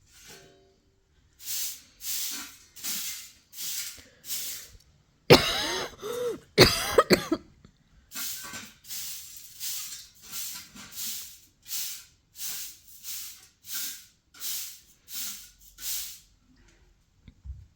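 Rhythmic rasping strokes, about one and a half a second, with two louder, screeching scrapes near the middle.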